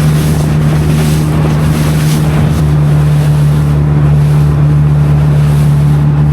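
A small boat's motor running steadily under way, with wind buffeting the microphone and water rushing past the hull.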